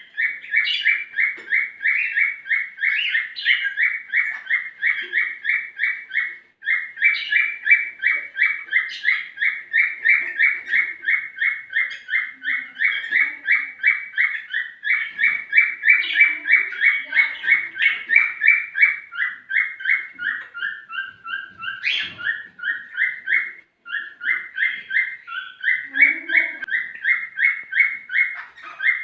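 Male cockatiel singing its courtship song to stir the hen to mate: a long, fast, even run of short repeated chirps, several a second, with two brief pauses.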